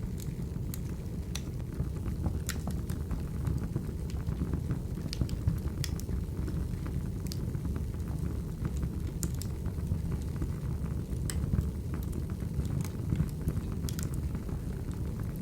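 Wood fire burning: a steady low rush of flames with sharp, irregular crackles and pops from the burning logs.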